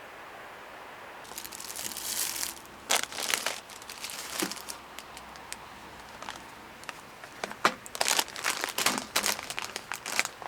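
Crinkling and crumpling in irregular bouts: one through the first few seconds, then a denser, louder run near the end.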